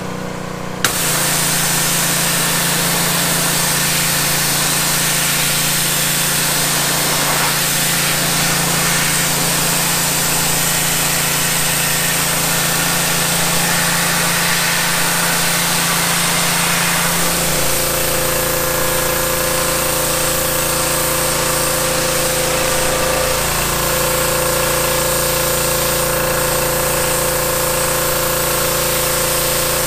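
Pressure washer running and spraying water, a steady engine-like drone under a loud hiss. It starts about a second in, and its tone shifts a little past halfway.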